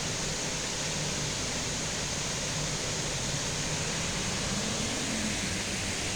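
Steady, even hiss of water, the wash of rain and running water, with no separate drops or splashes standing out.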